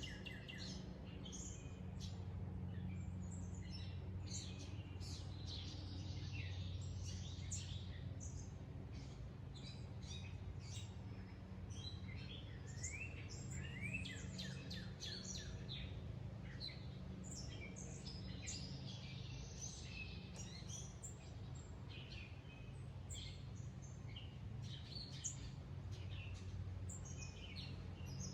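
Several wild birds chirping and singing, with many short, quick notes and sweeping calls, over a steady low background hum.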